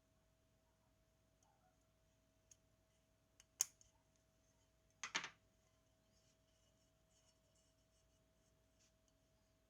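Near silence over a faint steady hum, broken by one sharp click about three and a half seconds in and a short double clatter about a second and a half later: small parts and tools being handled during a camera repair.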